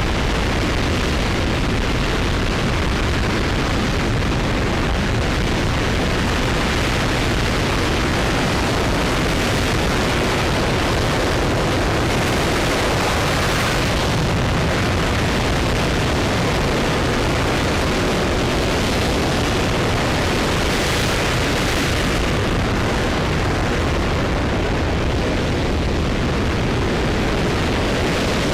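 An RS-25 liquid-hydrogen rocket engine running at full power on a static test stand: a loud, steady, unbroken roar.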